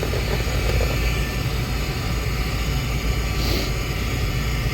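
Rooftop gas heating unit running with the thermostat jumped out, a steady fan and motor noise with a low rumble.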